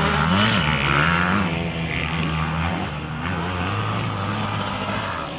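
Off-road racing motorcycle engines running hard on a dirt track, several engines at once with small rises and falls in pitch as they rev, the sound fading a little after the first couple of seconds.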